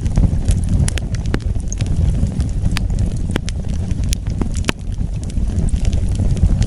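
Wood fire burning, with sharp irregular pops and crackles over a steady low rumble of the flames.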